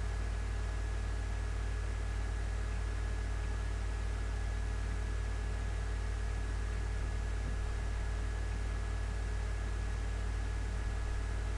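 Steady background hum and hiss, with a faint high whine held on one pitch, unchanging throughout.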